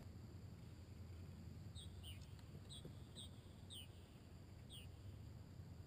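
Near silence with a low steady hum, over which a bird gives about six short high chirps, each a quick up-and-down note, starting about two seconds in.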